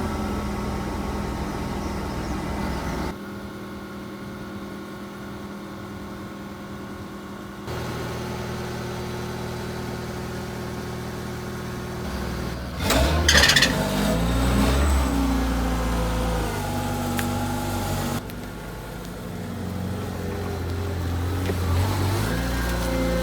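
STILL RX 70-25 forklift's engine running steadily, heard in several short cuts. Around the middle comes a loud clatter, and after it the engine speeds up and slows down again several times.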